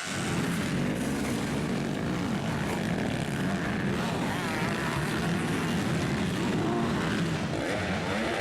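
Motocross motorcycle engines running hard on the track, their pitch rising and falling as the riders work the throttle.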